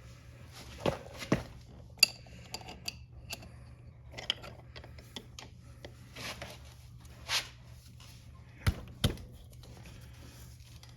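Scattered metallic clicks and clinks of a chain press tool and hand tools being handled on a motorcycle's steel drive chain, with a sharp click about two seconds in and two heavier knocks in quick succession near the end.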